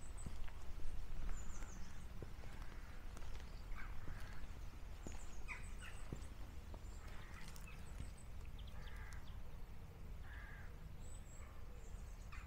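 Wild birds calling: short, high chirps and several harsher, lower calls scattered throughout, over a steady low rumble.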